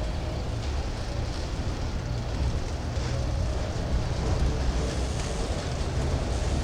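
Freight train cars rolling past close by: a steady low rumble with wheel and rail noise.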